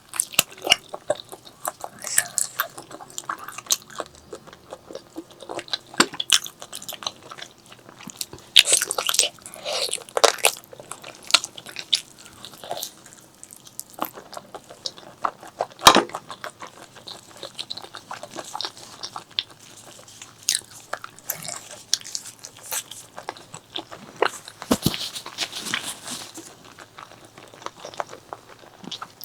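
Close-miked eating: irregular biting, crunching and wet chewing, with a few louder crunches in between.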